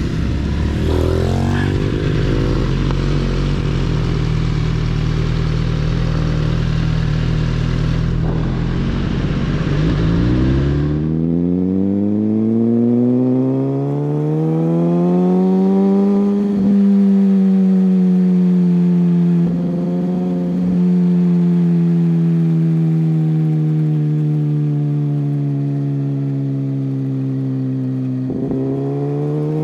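Superbike engine running under way, with heavy wind rush for the first ten seconds or so. After that the engine note rises slowly, holds and sinks gently with the throttle, with a few short changes along the way.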